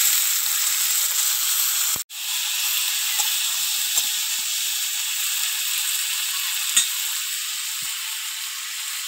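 Pieces of raw cooking banana sizzling steadily in hot oil with fried onion in a metal pan, with a few light knocks of a spatula against the pan. The sizzle breaks off for an instant about two seconds in.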